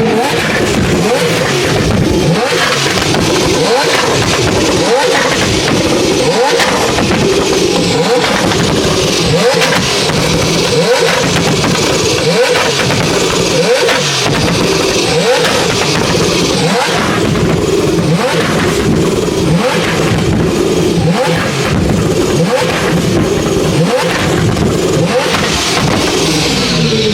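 Car engines revved hard over and over, in quick rising blips about once a second, with a loud exhaust note.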